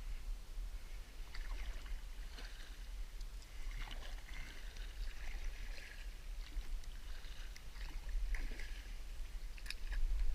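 Kayak paddle strokes in creek water: splashes and drips from the paddle blade, over a steady low rumble.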